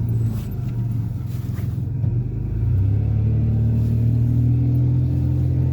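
Car engine and road noise heard from inside the cabin: a steady low engine drone that eases off about a second in, then grows louder again about halfway through as the car picks up speed.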